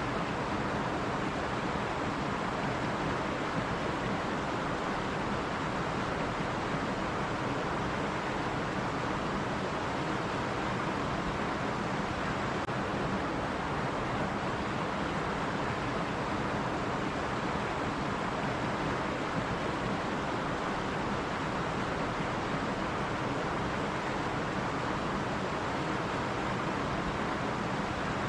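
A stream running over rocks: a steady, even rush of water with no changes.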